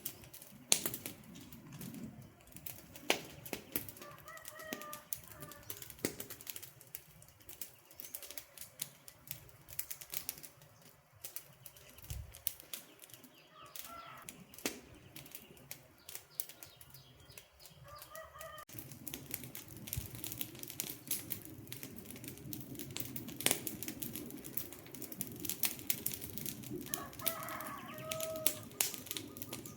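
Wood fire crackling and popping with many sharp snaps, the low rush of the flames growing fuller about two-thirds of the way in. A bird calls briefly three times in the background.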